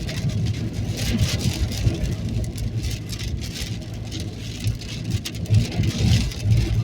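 Car driving through a storm: a steady low rumble with a high hiss of rain and wind that rises and falls in gusts.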